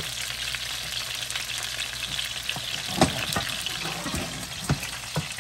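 Chicken thighs sizzling in hot oil in a nonstick grill pan, a steady frying hiss. A few short knocks of the pan on the glass cooktop come about three seconds in and again near the end as it is moved to another burner.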